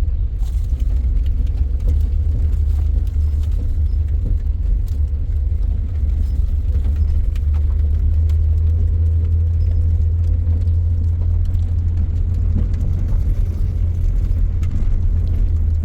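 Steady low rumble of a car moving along a road, heard from inside the cabin.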